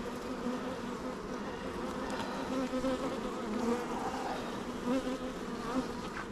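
Honeybees buzzing around an opened hive: a steady hum of many bees, with its pitch wavering and swelling slightly as individual bees fly close.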